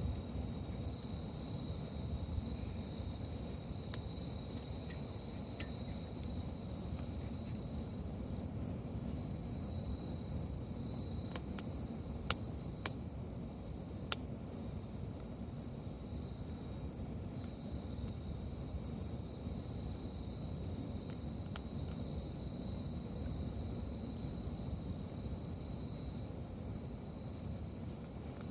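Steady chorus of night insects chirring in two high, unbroken tones, over a low steady rumble. Sharp crackles from the wood fire come now and then, several close together around the middle.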